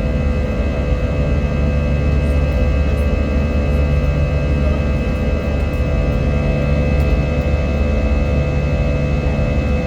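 Airbus A320 jet engines and airflow heard inside the passenger cabin in the climb after takeoff: a steady low rumble with a constant whine of fixed engine tones over it.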